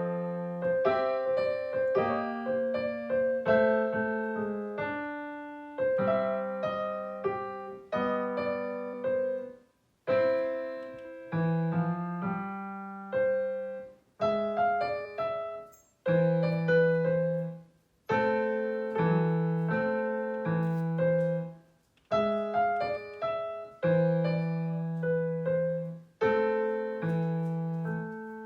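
Solo piano played in short phrases of notes, with brief breaks between phrases.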